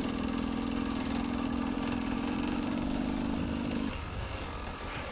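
Motorcycle engine idling steadily, fading out about four seconds in.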